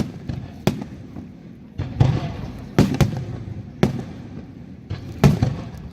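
Fireworks bursting overhead, a sharp bang about every second, each followed by a low rumbling echo.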